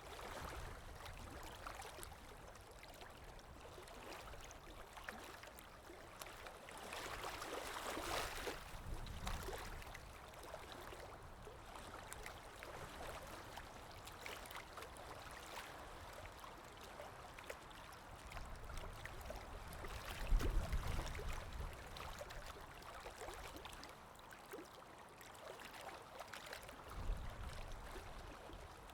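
Flowing water, like a small stream, running steadily, with a louder stretch early on and low rumbles twice in the second half.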